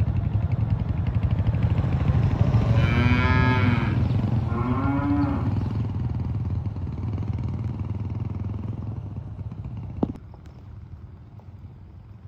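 Cattle mooing, two calls in quick succession, over a steady low rumble that slowly fades. A sharp click about ten seconds in, after which the background drops quieter.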